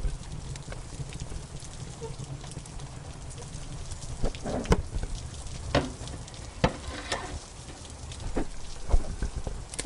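Wood fire crackling with sharp, irregular pops, thickest around the middle and again near the end, over the steady patter of rain.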